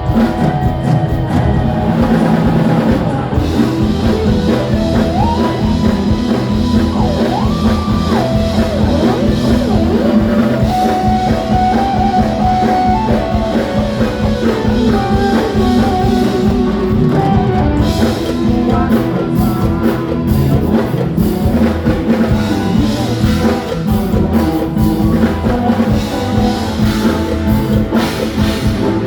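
Live band playing loud amplified rock-style music with drum kit and guitar, a melody line sliding up and down over the steady beat.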